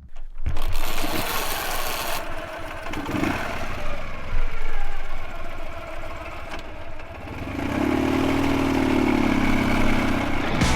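Dnepr MT16 sidecar motorcycle's flat-twin engine running and revving, with some clatter. Near the end the engine note steadies into a clear drone that rises slightly and falls again for a couple of seconds.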